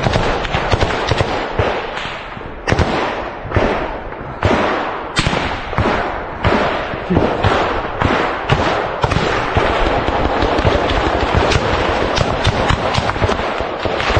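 Small-arms gunfire: a dense crackle of shots, with a louder single crack about every second, each trailing off briefly.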